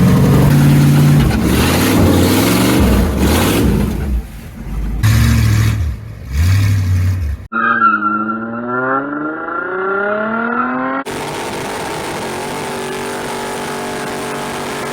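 An engine revving hard with several short throttle blips. About halfway through the sound cuts abruptly to engine revs sweeping up and down in pitch, then cuts again to an engine running steadily.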